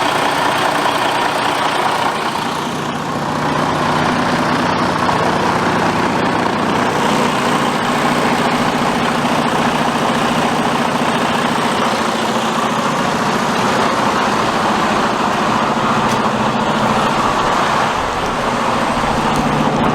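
Semi truck's diesel engine running steadily.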